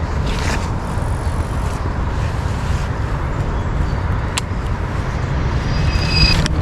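Steady low rumble of wind buffeting the microphone over a hiss of outdoor noise, with one sharp click about four and a half seconds in.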